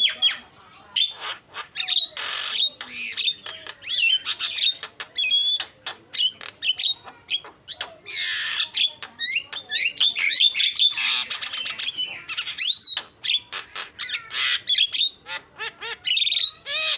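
Javan myna (jalak kebo) singing in a long, continuous chatter: a rapid jumble of harsh squawks, dry clicks and short whistled notes.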